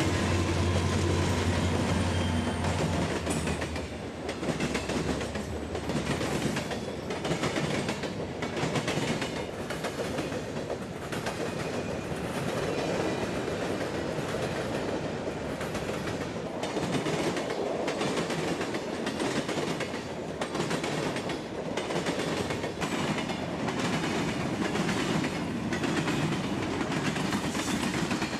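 Freight train passing on the mainline: the diesel locomotives' low engine drone for the first few seconds, then a long string of freight cars rolling by, their wheels clacking at a regular beat over the rail joints.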